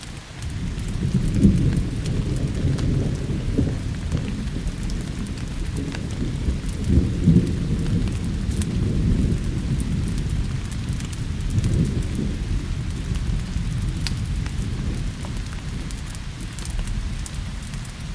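Rolling thunder that rumbles and swells several times over steady rain, with scattered small crackles from a wood fire.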